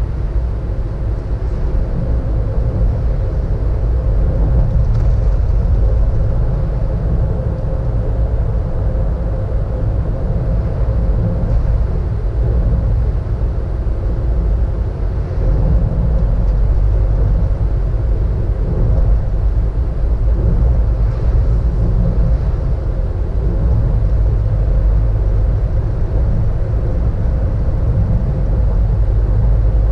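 Car driving along a road, heard from inside the cabin: a steady low rumble of engine and tyre noise, with a faint steady hum above it.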